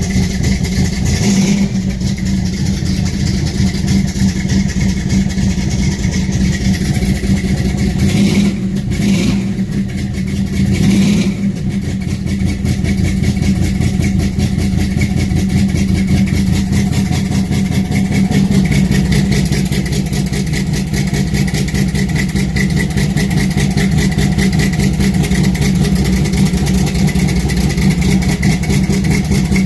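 1968 Dodge Charger R/T's big-block V8 idling as it warms up after a cold start, with the engine note briefly changing between about eight and eleven seconds in.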